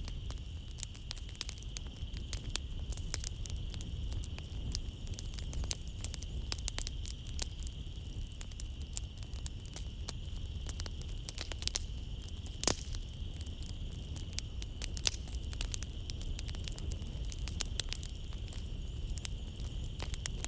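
Wood fire burning in a fireplace, crackling and popping irregularly over a low rumble of flames, with the sharpest pops about 12.7 seconds in and again near 15 seconds. Night insects trill steadily and high-pitched behind it.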